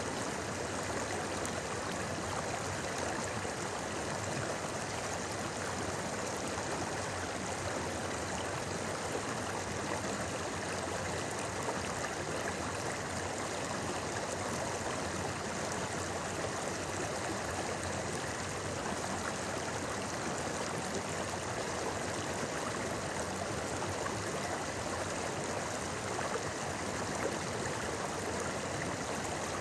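Clear mountain stream flowing and babbling over stones, a steady, even rush of water.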